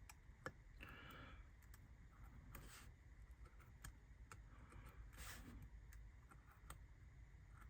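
Near silence with faint, scattered clicks and a few short light scrapes from small laser-cut ridge tiles being worked by hand, scored down the centre and bent.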